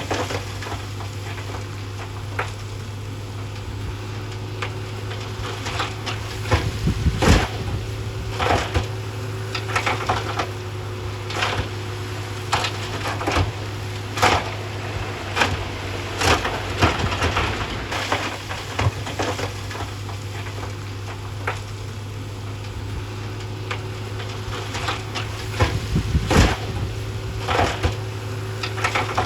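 A heavy earthmoving machine's diesel engine runs steadily under frequent sharp knocks and clatter of rock being shoved and tumbling, with the knocks bunched in several clusters.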